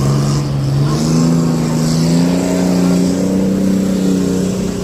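A motor vehicle's engine revving up, its pitch rising over about two seconds and then holding steady.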